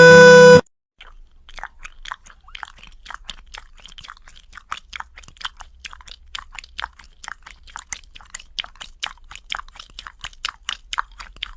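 A cat chewing with a steady crunch, about four crunches a second. A song breaks off within the first second.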